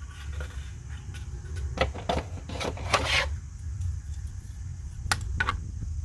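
Hands handling the figure's plastic packaging and parts: a cluster of rustles and clicks in the middle, then two sharp clicks about five seconds in, over a steady low hum.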